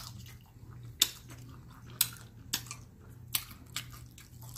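Close-up chewing of a crispy fried chicken wing: about five sharp crunches and mouth clicks, spaced unevenly, the first about a second in the loudest, over a low steady hum.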